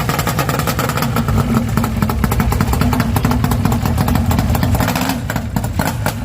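Yamaha RD400 Daytona Special's two-stroke parallel-twin engine running steadily, with a rapid even pulse, easing off slightly near the end.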